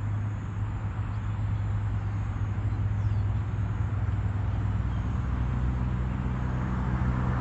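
Road traffic: a motor vehicle's low, steady engine hum, growing a little louder in the second half.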